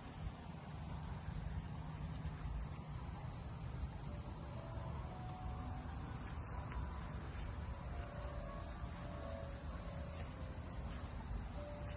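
Insects chirring steadily in a high-pitched band, over a low rumbling background.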